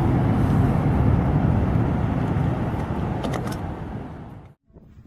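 Deep rumble and churning wash of a glacier front collapsing into the water, a dense low roar that fades away over the last second or two.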